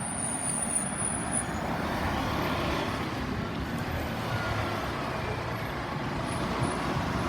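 Scania N230UD double-decker bus running, a steady mix of diesel engine and road noise, with a thin high whistle over it for the first second and a half.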